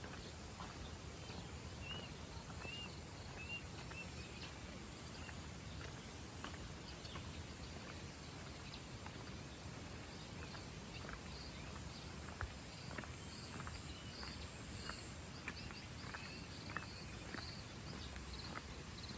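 Outdoor nature ambience under a steady low rumble: a bird gives a few short chirps in the first few seconds, then a high, rapid chirping repeats through the second half, with soft footsteps of someone walking.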